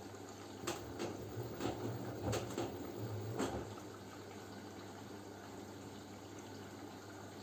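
LG F10B9LD front-loading washing machine in its wash phase: a steady low hum, with a run of soft knocks and water sloshing for the first few seconds as the drum turns the wet laundry, then the hum alone.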